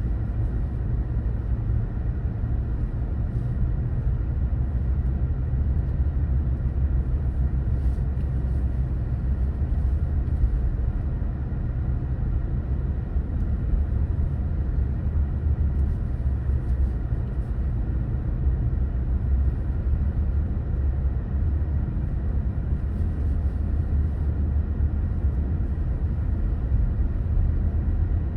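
Car driving steadily, a constant low rumble of road and engine noise with no change in pace.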